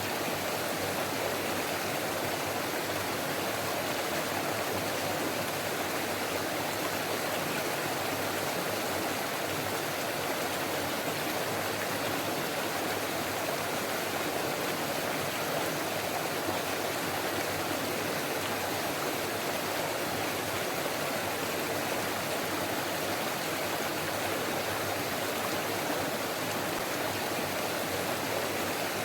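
Forest stream flowing and babbling: a steady, even rush of water with no breaks.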